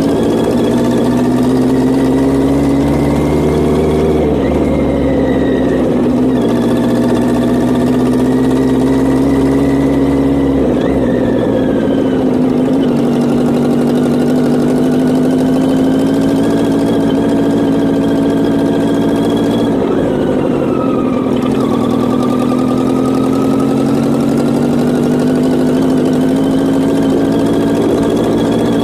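1983 Yamaha XJ900's air-cooled inline-four engine running at low speed, its pitch rising and falling with the throttle. Three times, about 4, 11 and 20 seconds in, the revs drop sharply and then climb again.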